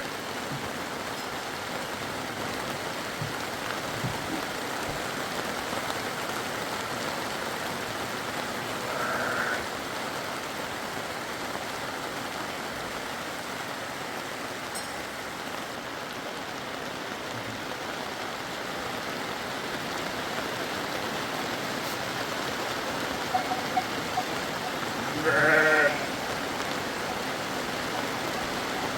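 Steady hiss of rain or running water, with a sheep bleating twice, about nine seconds in and again near the end.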